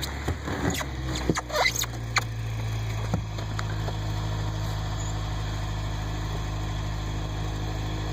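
Pickup truck engine running steadily at low revs, with several knocks and clatters in the first two seconds or so.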